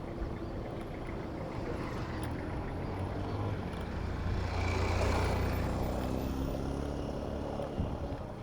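A heavy motor vehicle's engine rumbles as it passes close by in traffic. It is loudest about five seconds in and eases off near the end.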